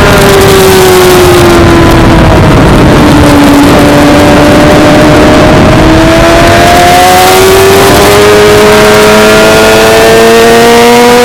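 Suzuki GSX-R600's inline-four engine, loud. Its note falls over the first few seconds, then climbs steadily under throttle for the rest of the time.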